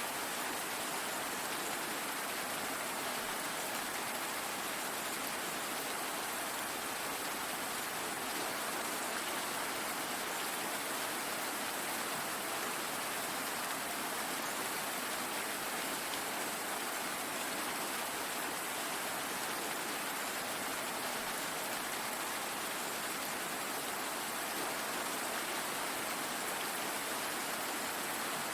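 Steady rainfall, an even hiss with no single drops or thunder standing out.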